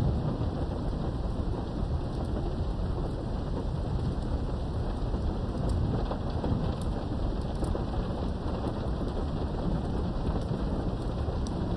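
Steady heavy rain with a continuous low rumble of thunder, heard from behind a window, with scattered sharp drop ticks over the even rain noise.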